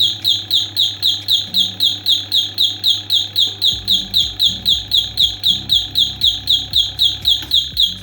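A high electronic chirping beep repeating rapidly and evenly, about four chirps a second, each a short falling blip, over a low steady hum.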